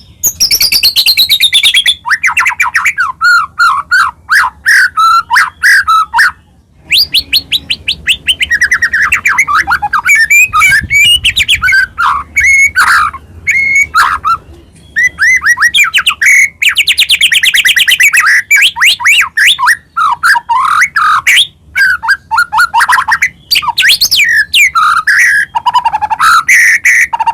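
White-rumped shama (murai batu) in full, persistent song: loud, varied phrases of rapid whistles, fast trills and sweeping notes, with short pauses between bursts, the longest about a quarter of the way in.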